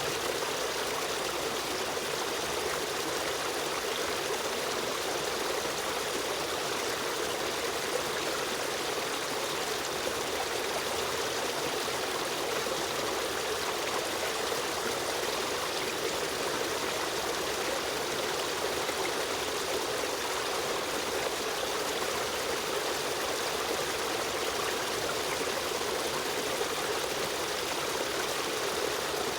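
Running water of a flowing stream: a steady, even rush with trickling, unchanging throughout.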